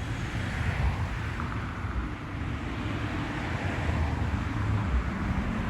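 Wind buffeting the microphone over a steady low vehicle engine hum.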